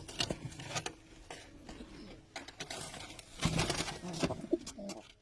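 Domestic pigeons cooing, low and steady, with scattered clicks and scuffling.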